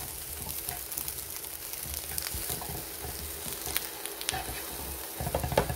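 Asparagus spears and mushrooms sizzling in a hot nonstick frying pan, with light clicks of tongs against the pan as the spears are turned.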